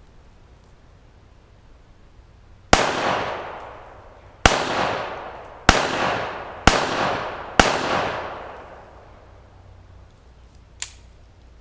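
Five gunshots fired at an uneven pace, each with a long echoing decay, followed a few seconds later by a single light clink.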